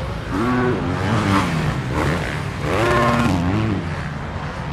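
Motocross bike engines revving on the track, with two surges of about a second each where the pitch rises and then falls off.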